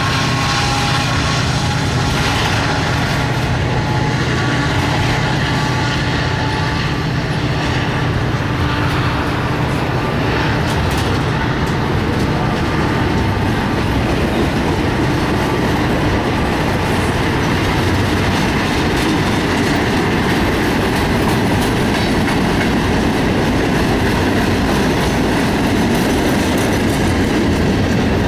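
Freight cars of a long train rolling past close by: a steady rumble of steel wheels on rail with clickety-clack over the joints and a touch of wheel squeal. Over the first several seconds a diesel locomotive's engine note fades away beneath it.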